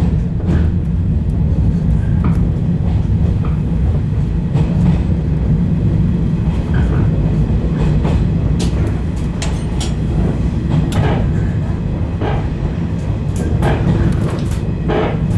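A 115 series electric train running on the rails, heard from on board: a steady low rumble with scattered clicks and knocks from the wheels passing over rail joints and points.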